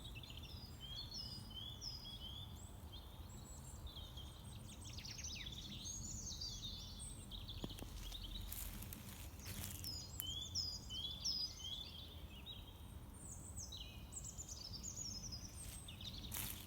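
Several songbirds singing in a forest, repeating short high chirped phrases that overlap one another, over a steady low background rumble. A few brief noises break in about halfway through and again near the end.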